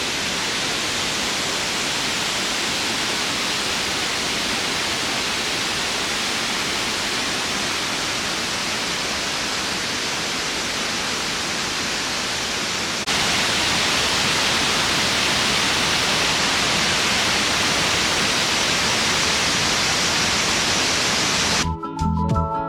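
Waterfall's falling water: a steady, even rush that turns abruptly louder about halfway through. Guitar music comes in near the end.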